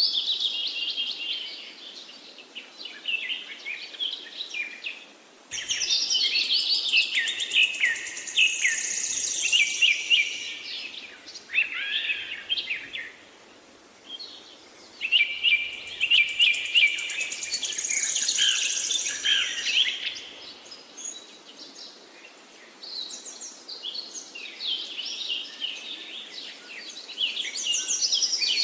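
Several birds singing and chirping in overlapping bouts of a few seconds each, with short lulls between the bouts.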